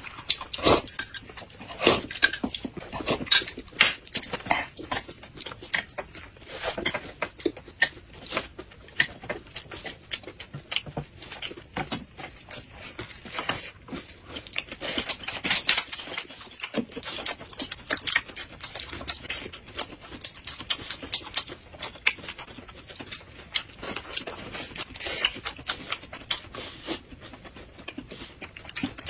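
Close-miked eating sounds of two people biting and chewing lettuce rolls in thin wrappers: many small crisp crunches, crackles and wet mouth clicks, with some handling of the wrappers and plates.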